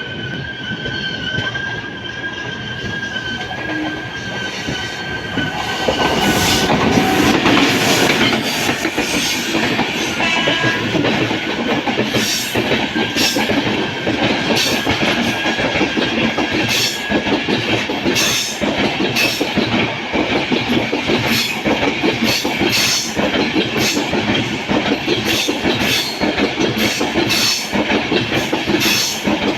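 LHB passenger coach running on the rails: a steady high wheel squeal over the rumble for the first several seconds. Then the running noise grows louder, with repeated irregular clicks of the wheels over rail joints.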